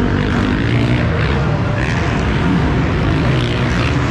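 Small two-stroke motocross bike engine (KTM 50 SX) running loud and steady, its pitch wavering slightly, heard from a camera mounted on the bike.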